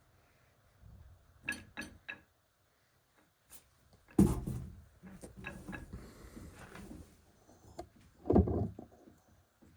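Workshop handling of manual-transmission parts: a few light clicks, then two heavy knocks, one about four seconds in and one near the end.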